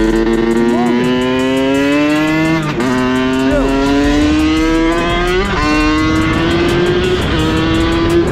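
Dirt bike engine pulling through the gears: its note climbs steadily in each gear and drops sharply at each shift, about three seconds in and again around five and a half seconds, with a smaller drop near the end.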